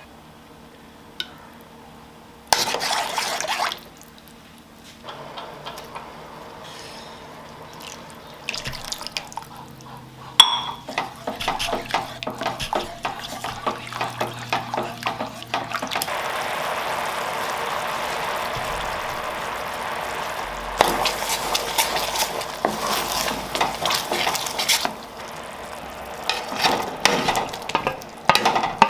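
Kitchen work: water running for several seconds in the middle, among scattered clinks and knocks of dishes and utensils.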